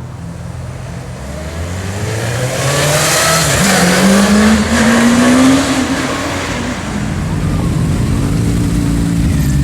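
Sport motorcycle engine accelerating, its pitch climbing steadily for a few seconds and loudest around the middle, then settling to a steadier running note.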